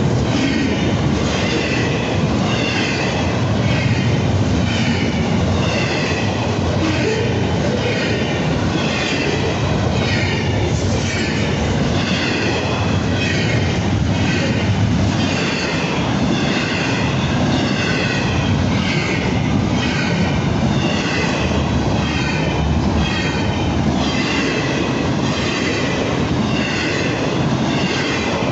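Train cars rolling past at a steady speed, the wheels clicking over rail joints in an even rhythm of about one and a half beats a second, with a wavering high wheel squeal over the continuous rumble.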